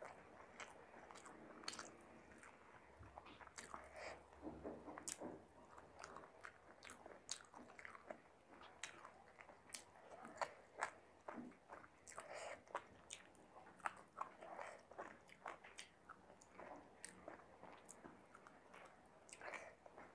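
A person chewing mouthfuls of chicken biryani eaten by hand, close to a clip-on microphone, with many short mouth clicks throughout.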